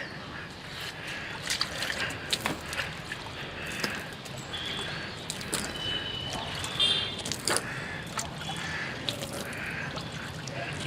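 Footsteps and handling knocks, irregular and scattered, over faint outdoor ambience, with a few short high chirps around the middle.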